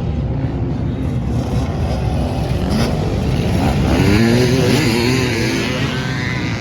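Motocross dirt bikes racing on the track, their engines revving up and down, loudest about four to five seconds in as they pass close.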